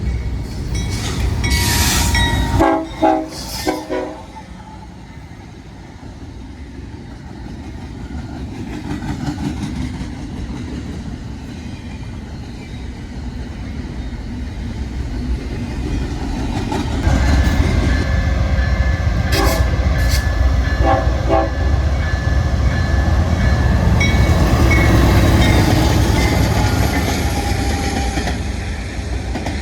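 Diesel-hauled train passing with its horn sounding: a horn note near the start breaks into short blasts a few seconds in. A rumble then builds, loud from a little past halfway, with two more short horn blasts and wheel clatter as the train goes by, easing near the end.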